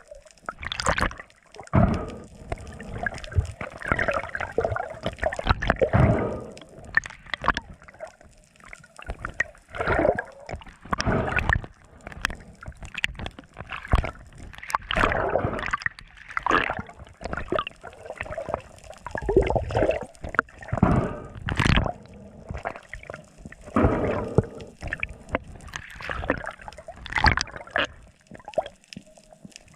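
Water sloshing and gurgling around the camera in irregular surges every second or two.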